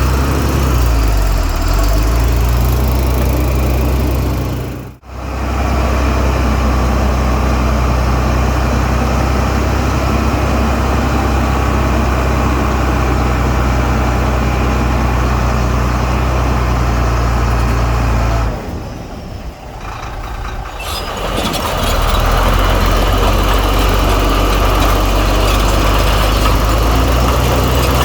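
Heavy diesel engine of earthmoving machinery running steadily at a constant pitch. The sound drops out sharply for a moment about five seconds in, then falls lower for a few seconds past the two-thirds mark before returning at full strength.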